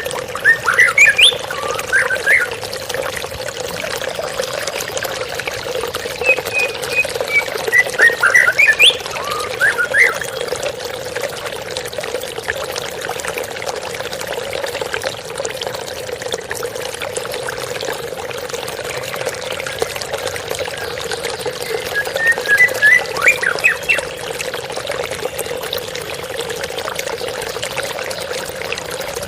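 Steady rush of trickling water from a waterfall, with a songbird giving quick phrases of whistled song three times: near the start, from about six to ten seconds in, and again about twenty-two seconds in.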